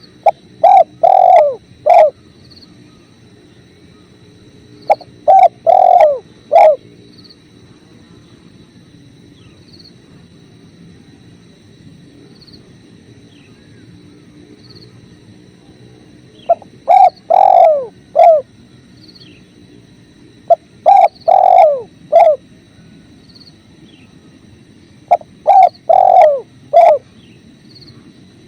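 Spotted dove (tekukur) cooing: five phrases of three or four low coos, spaced several seconds apart, over the steady low rush of flowing river water. Faint short high chirps recur in between.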